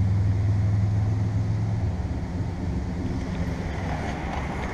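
Running central air conditioner condensing unit: a steady low compressor hum with fan noise, fading after about two seconds.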